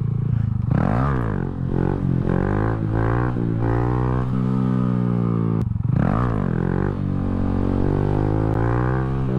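Honda Grom's 125 cc single-cylinder four-stroke engine running hard under throttle while the bike is held in a wheelie. The revs dip and climb back about a second in and again about six seconds in, as the throttle is eased and reapplied.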